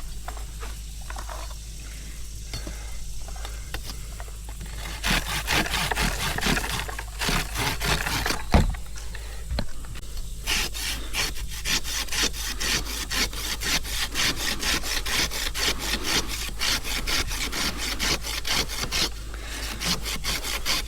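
Hand saw cutting through wood, likely a tree limb, in steady back-and-forth strokes about three a second. The strokes start about five seconds in, pause briefly near the middle and stop shortly before the end.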